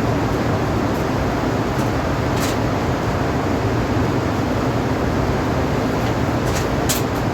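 Steady mechanical drone of rooftop air-conditioning units running, with a few sharp clicks, one about two and a half seconds in and two near the end.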